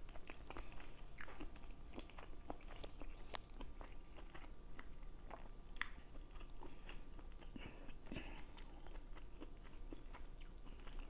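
A person chewing and biting food, with many small, irregular mouth clicks.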